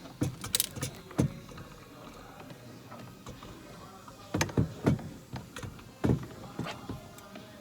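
Knocks and clunks as a steering column assembly is worked into its mounting: a few sharp impacts in the first second or so, then more between about four and a half and six seconds in.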